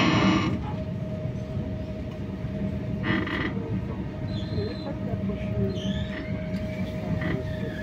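Interior sound of a moving passenger train: a steady low rumble of the running gear with a constant hum over it. Two short hissing bursts come at the start and about three seconds in.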